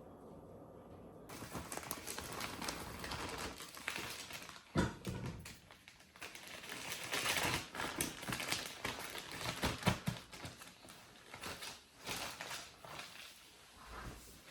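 Kitchen prep handling noise: rustling and scraping of utensils and containers, with a few sharp knocks about five and ten seconds in.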